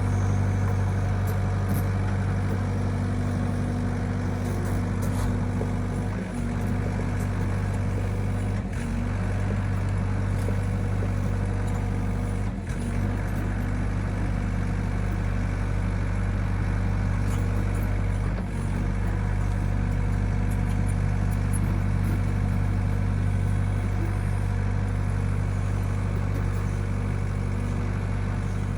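Excavator engine running steadily at a constant speed, with a deep hum.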